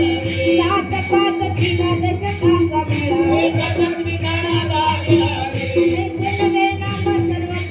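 Devotional bhajan music: jingling hand percussion struck in a steady beat, about three strikes every two seconds, over a steady held note and a wavering sung line.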